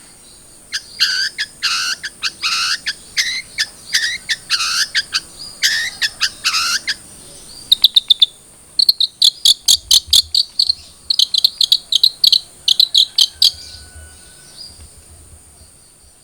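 Long-tailed shrike (cendet) singing: a string of sharp chirping notes, then rapid chattering runs from about halfway that fade out near the end. A faint steady high-pitched whine lies underneath.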